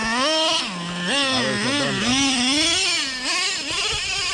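Traxxas Revo 3.3's nitro engine revving, its pitch rising and falling several times as the throttle is worked.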